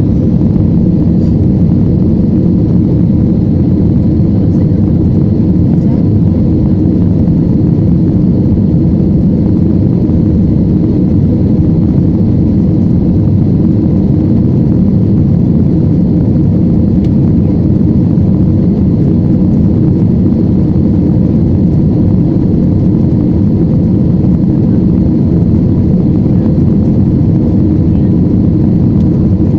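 Airplane engine noise: a loud, steady low rumble that holds unchanged throughout, with a faint high whine above it.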